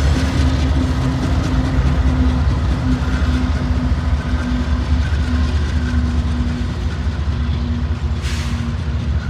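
Norfolk Southern freight train rolling past, a steady heavy rumble with clickety-clack of the cars on the rails and a short hiss near the end.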